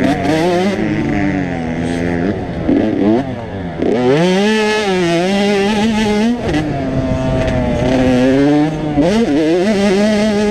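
85cc two-stroke motocross bike engines revving on the track, the pitch climbing through the gears and dropping off again, with more than one bike heard at once.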